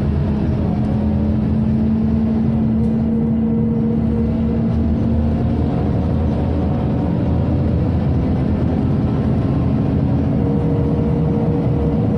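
Inside a Scania OmniCity city bus on the move: the engine and drivetrain hum steadily under the whir of the ventilation system. The engine's tone shifts slightly in pitch about halfway through.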